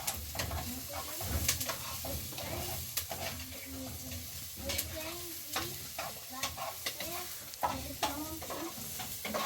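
Irregular crackling with sharp clicks over a steady hiss, like food frying or a fire crackling.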